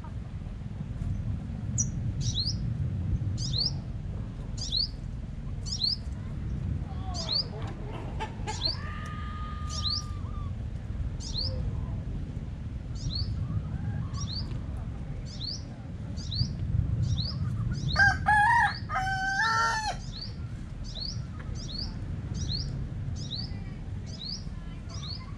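A small bird repeats a short, high, falling chirp about twice a second over a low rumble. About two-thirds of the way through, a rooster crows once, for about two seconds.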